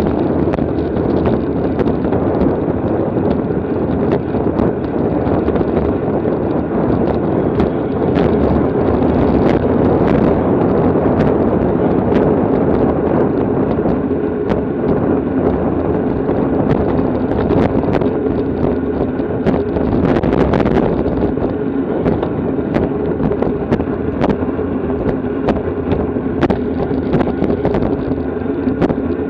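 Wind rushing over the microphone with the tyre and road noise of a racing bicycle at speed. A faint hum runs under it, and small clicks and rattles from the bike come throughout.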